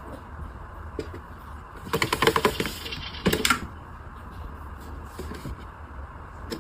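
Rapid clattering taps in two bursts, one about two seconds in and a shorter one about a second later, over a steady low hum.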